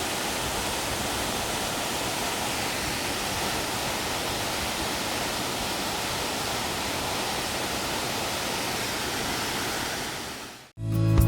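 Steady rushing of a waterfall, falling water with no pitch to it, fading out near the end. Acoustic guitar music starts just before the end.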